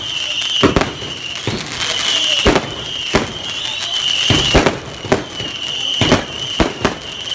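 Fireworks going off: irregular sharp bangs about every half second, with a steady high whistle running between them.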